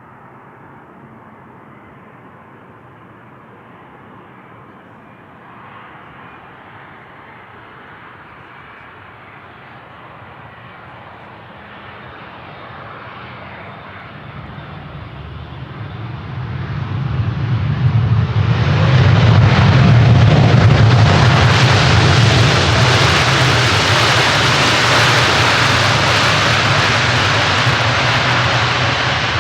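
Boeing 787-9 Dreamliner's jet engines on a landing approach, growing slowly louder, then swelling into a loud roar from about 16 seconds in as the airliner passes close and touches down.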